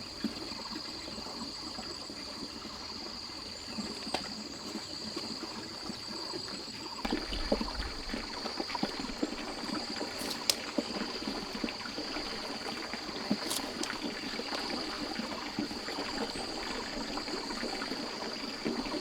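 Water trickling, with a steady high-pitched drone, like insects, running behind it and a few faint clicks.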